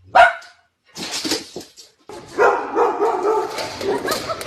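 A dog barking, then a longer wavering whine from about two seconds in.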